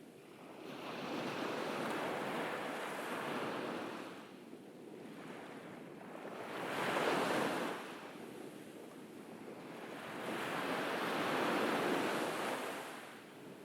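Ocean waves breaking and washing up a beach, the surf swelling and fading three times: two long washes, with a shorter, sharper break between them.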